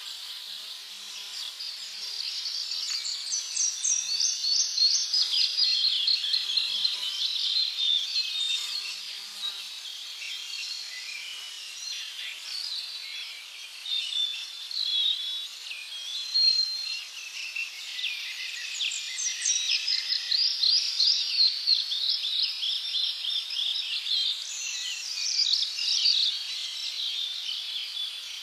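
Several birds singing and chirping together in a dense chorus of quick, high trills and chirps, swelling and easing over the stretch.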